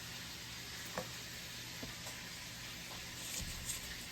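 Electric mixer running steadily as it creams butter and sugar, with a few light taps as a spatula scrapes the sides of the bowl.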